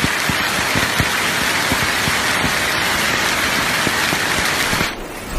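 Hailstones pelting down on hard surfaces: a dense hiss with many separate hits. About five seconds in it cuts to a quieter, lower rumbling noise of the storm.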